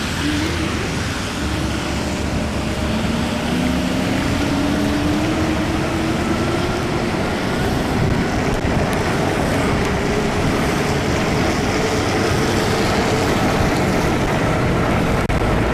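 Riding a fat-tire e-bike on a wet road: steady rushing wind and tyre noise, with a motor whine that rises in pitch over the first several seconds as the bike speeds up, then holds steady.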